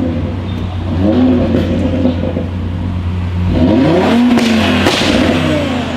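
Audi RS3 8V's turbocharged five-cylinder engine through a Milltek straight-pipe exhaust: a steady low drone with two revs that rise and fall, about a second in and again around four seconds in, the second followed by a few sharp cracks.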